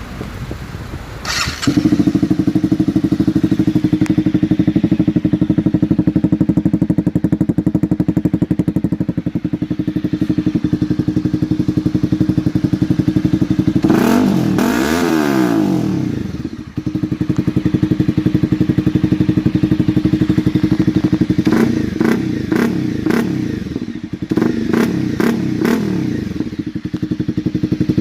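Honda CB300R single-cylinder engine breathing through an aftermarket full exhaust system. It catches about two seconds in and idles steadily, then gives one rev up and back down around the middle. Near the end come several quick throttle blips with sharp popping cracks.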